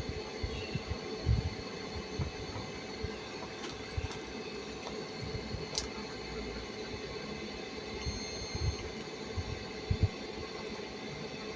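A steady mechanical hum, with irregular low knocks and a few sharp clicks over it.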